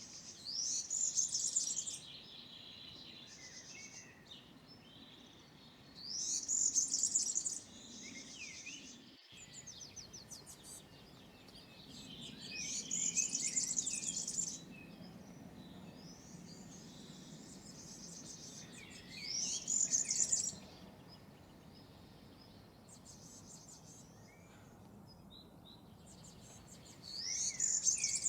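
European serin singing: five bursts of high-pitched, rapid song, each a second or two long, about every six to seven seconds, with fainter chirps in between.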